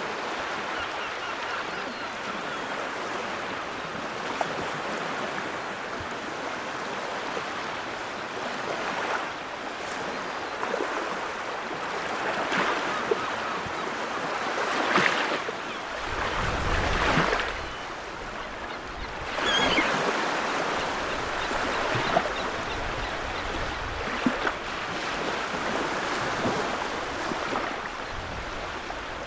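Sea waves breaking and washing ashore, swelling and falling in slow surges, with the biggest waves near the middle. A low rumble joins about halfway through.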